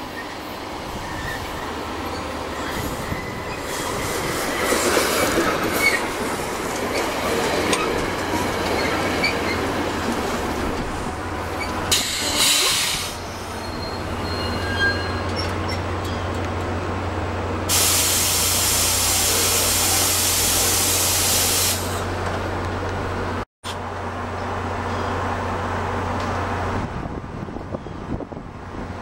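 NJ Transit commuter train pulling into a station, its wheels squealing and rumbling as it slows, then standing at the platform with a steady low engine hum. About two-thirds of the way through, a loud hiss of air lasts about four seconds, and the sound cuts out for a split second soon after.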